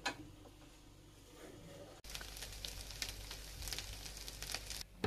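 Stir-fried yakisoba noodles and vegetables sizzling in a hot pan, a soft hiss full of fine crackles. It begins about two seconds in, after a light tap and a quiet moment.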